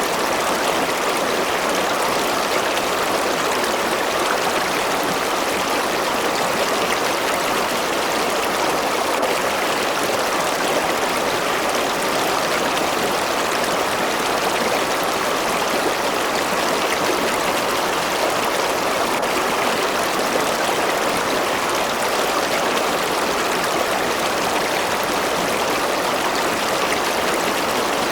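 A river or stream flowing steadily, a constant rushing and babbling of water.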